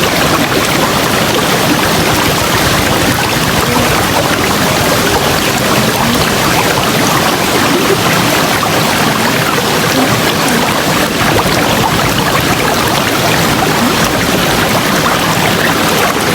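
River water rushing and burbling over rocks, a steady loud rush with faint gurgling.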